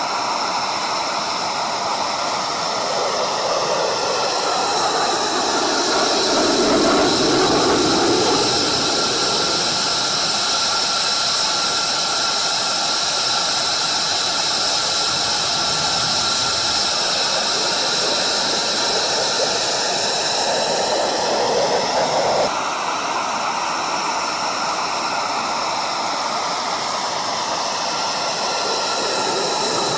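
Fighter-jet engines running loud: a rushing roar with a steady high whine, its tone sweeping slowly up and down. The sound changes suddenly about three-quarters of the way through.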